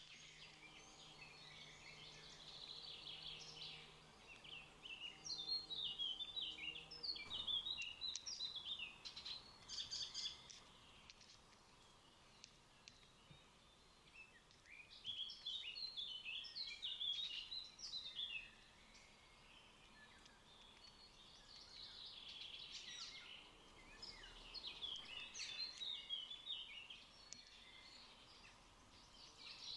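Birds chirping and twittering in three bouts of quick, high, jumbled notes, with quieter gaps between them. A faint low hum runs under the first several seconds.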